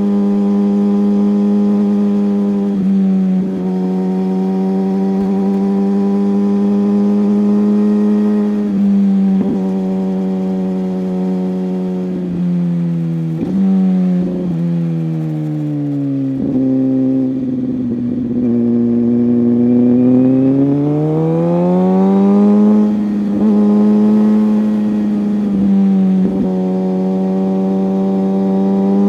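Inline-four superbike engine heard from the saddle while riding, holding a steady high-revving note. Its pitch dips briefly several times as the throttle is eased or gears change. Midway it sinks lower for a few seconds, then climbs again and rises near the end.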